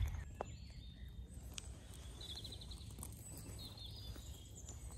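Woodland ambience: a songbird gives two short, rapid trilled phrases over a steady low rumble, with a few light knocks as the camera is handled and set down in the grass.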